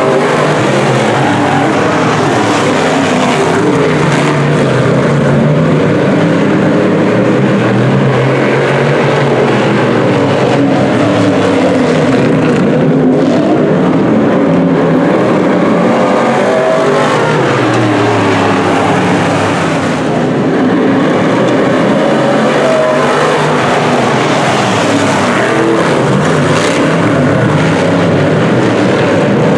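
A field of DIRTcar Sportsman dirt-track race cars racing around the oval. The loud, continuous mix of engines rises and falls in pitch as cars accelerate and pass.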